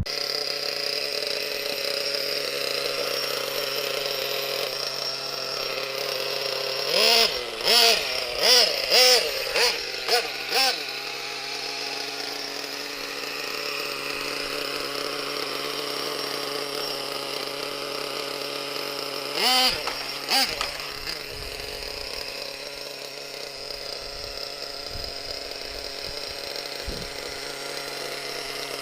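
Small .21 nitro two-stroke engine of a 1/6-scale Protech Promax RS short-course RC truck idling steadily. About seven seconds in, the throttle is blipped in a quick run of short revs, and it is blipped twice more about twenty seconds in.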